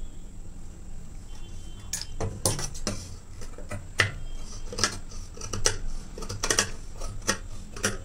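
Tailor's scissors cutting blouse fabric along a marked neckline, about ten sharp snips at uneven intervals.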